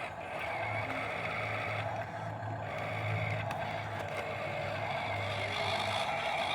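Radio-controlled model construction vehicle running, its electric motor and gears giving a steady whine with a low hum under it.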